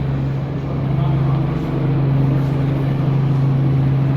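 An engine running steadily with a low, even drone that grows a little louder about a second in, then cuts off suddenly near the end.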